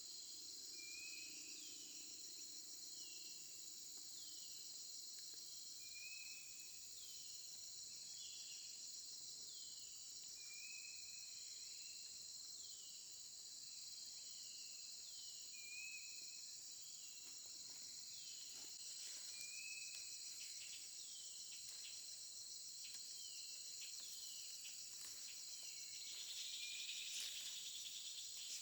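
Steady, high-pitched chorus of insects, with a short falling call repeated about once a second over it. Faint clicks and rustles come near the end.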